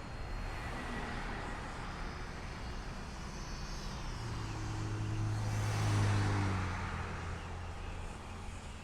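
A motor vehicle passes by with a low engine hum. It grows louder to a peak about six seconds in, then fades away.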